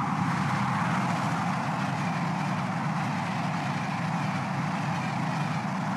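Trenitalia ETR 700 electric high-speed train passing close by at speed: a steady rush of wheel and air noise.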